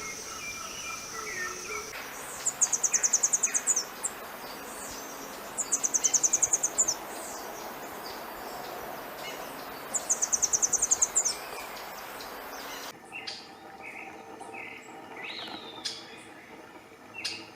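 Wild birds singing in tropical forest. A very high, fast trill of many quick notes is given three times, about four seconds apart, over a steady hiss. From about thirteen seconds in, the sound gives way to quieter, scattered short chirps from other birds.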